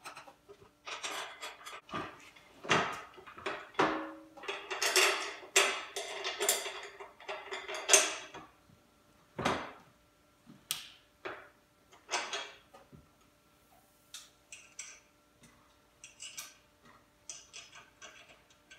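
Metal dolly parts and hand tools clinking, knocking and scraping at irregular intervals as bolts and support bars are fitted to the steel tray halves, busiest in the first half.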